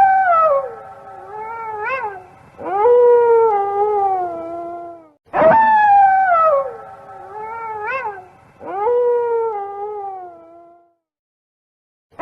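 Wolf howling: long howls that fall in pitch, with short rising calls between them. The same run of calls repeats twice, then stops about a second before the end.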